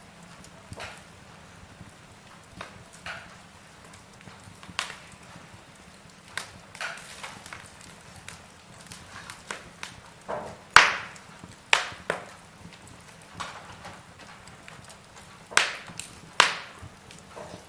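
Wood logs burning in a fireplace, crackling with irregular sharp pops, a few louder snaps among them, over a low steady hiss.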